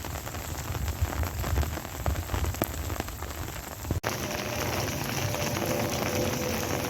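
Rain falling and pattering on surfaces, with many individual drops ticking. About four seconds in it breaks off sharply and gives way to a denser, steadier rain hiss.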